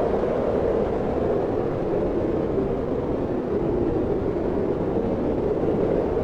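Wind blowing steadily: an even rushing noise with no gusts or breaks.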